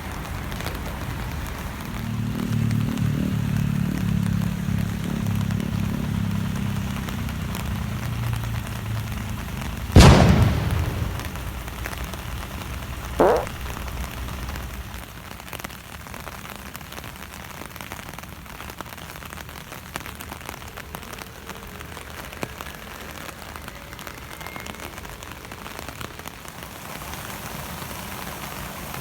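Steady rain falling. A low hum comes in about two seconds in and fades out around eleven seconds; about ten seconds in there is a single sharp, loud thump, the loudest sound, followed a few seconds later by a short higher-pitched tone.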